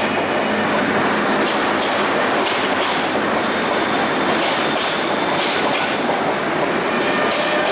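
PT INKA passenger coaches rolling past, wheels running over the rail with a steady rumble. Paired clicks of clickety-clack come roughly once a second as the bogies' wheelsets cross rail joints.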